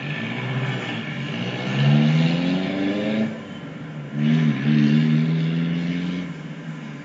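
Locomotive air horn sounding two long chord blasts over the running noise of a train; the first blast swells slightly in pitch as it starts.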